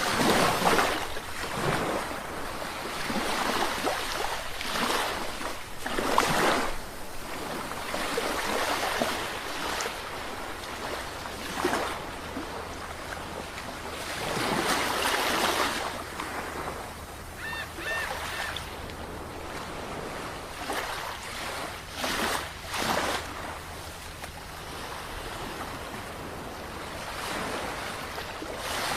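Sea waves breaking and washing ashore in irregular surges, one every few seconds. A few short high chirps come a little past the middle.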